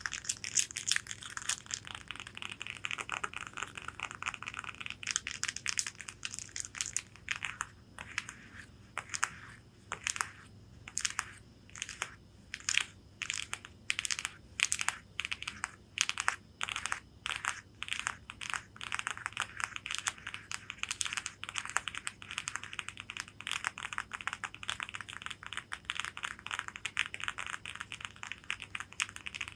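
Long fingernails scratching and tapping on the fabric of a corset bodice: dense, rapid scratching at first, then separate strokes about two to three a second, then dense scratching again near the end.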